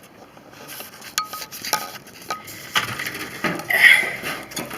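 Broken microwave parts clinking and rattling as the wreckage is handled: scattered sharp metallic clicks, then a louder clatter near the end.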